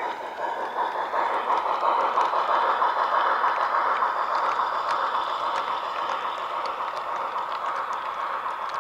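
Garden-railway model freight train running along the track: a steady running noise with faint scattered clicks.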